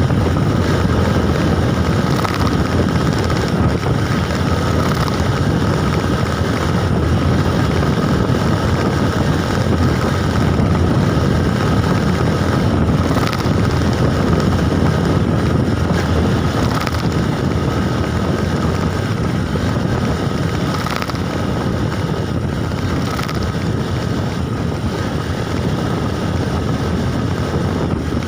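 Steady wind rush on the microphone with road noise from a moving bike, loud and even, with a faint steady whine underneath.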